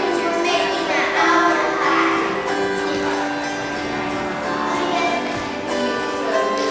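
Autoharp being strummed, its chords ringing with a bright, shimmering sound.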